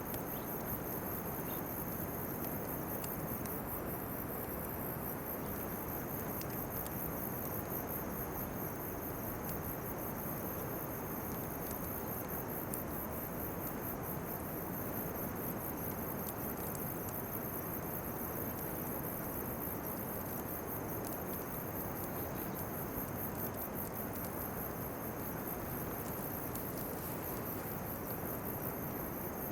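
Autumn insects, likely crickets, chirping in a fast, high pulsing trill, with a second insect holding a steady high note that drops out for a second or two near the start, over a steady low hiss.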